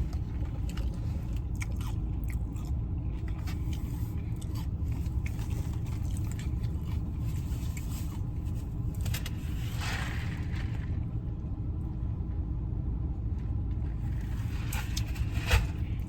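A person chewing and biting food close to the microphone, with scattered small crunches, clicks and scrapes, over a steady low hum.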